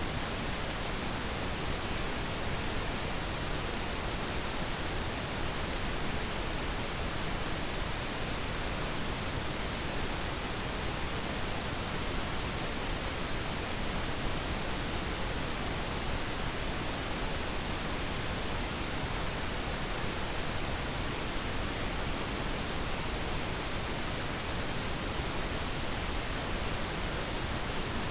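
Steady pink noise: an even, unchanging hiss with no other events.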